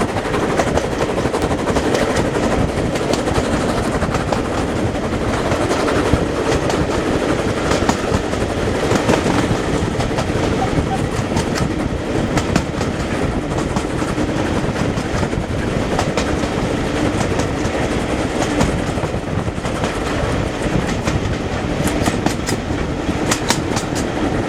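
A train running steadily along the line, its wheels clicking over the rail joints, with a denser run of clicks near the end.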